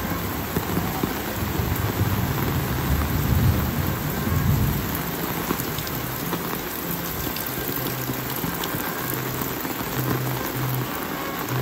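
Steady rain falling, with a low rumble underneath that is strongest in the first half.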